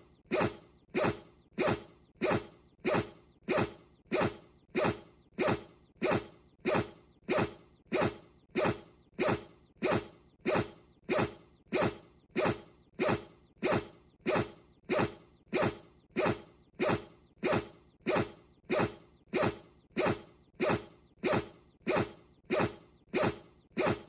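A Bichon Frise sneezing over and over in a fast, very even rhythm, a little under two sneezes a second, each one short and falling in pitch.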